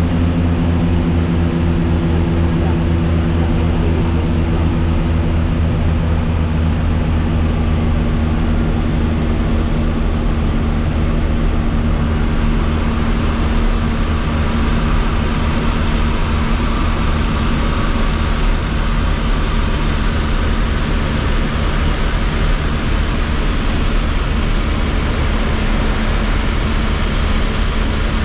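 Airliner engines heard from inside the passenger cabin: a loud, steady hum with a constant rushing noise. About twelve seconds in, the sound changes to a brighter, broader rush with less of the hum.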